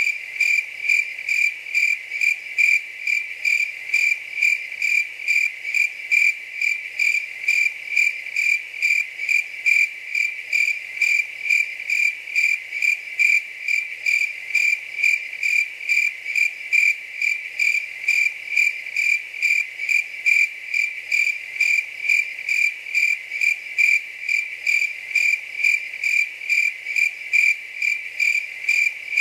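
Cricket chirping in an even, unbroken rhythm, about two chirps a second, all on one high tone.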